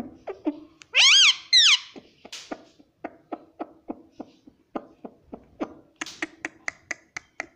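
Pet parrot giving two loud squawks that rise and fall in pitch, followed by a long run of quick sharp clicks, about three to four a second.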